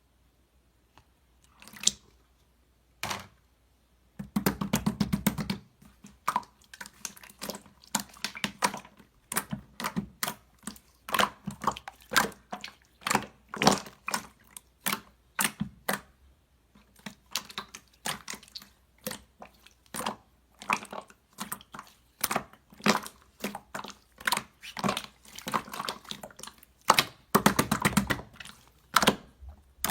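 Pearl slime being squished and pressed by hand: a string of sticky clicks and pops, about one or two a second, with a fast crackling run about four seconds in and again near the end.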